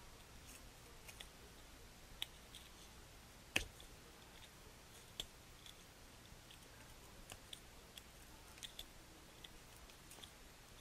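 Faint, scattered small clicks and taps of hard plastic model-kit parts being handled and fitted together, with one sharper click about three and a half seconds in.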